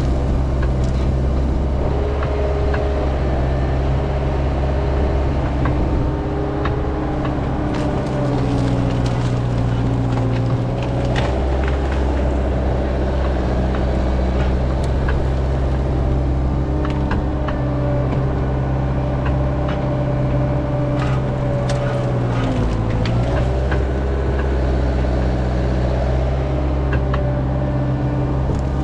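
Cat 306 mini excavator's diesel engine running steadily under hydraulic load, its note sagging briefly about two-thirds of the way through, with scattered sharp clicks and cracks.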